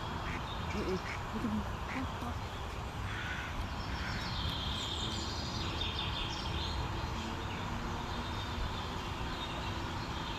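Wild birds calling and chirping, with bursts of repeated chirps in the middle, over a steady outdoor background noise.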